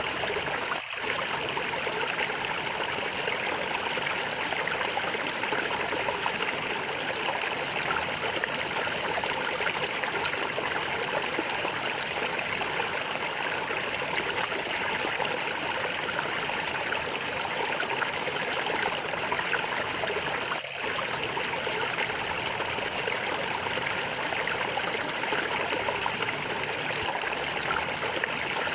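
Gurgling water of a small stream, flowing steadily. The sound dips very briefly once about a second in and again about twenty seconds in.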